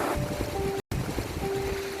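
Ocean waves washing steadily under soft, slow music of long held notes. Just under a second in, all sound drops out for a split second.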